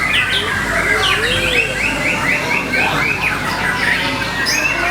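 White-rumped shama (murai batu) singing a fast, varied song of whistles and sweeping notes, with a run of about eight quick repeated notes in the middle.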